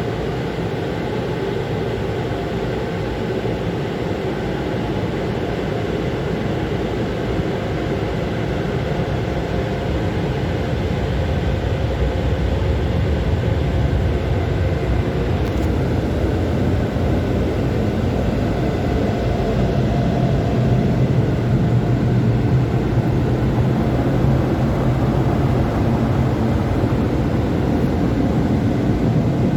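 PDQ Laserwash G5 touchless automatic car wash running: a steady mechanical rushing noise that grows gradually louder and deeper from about twelve seconds in.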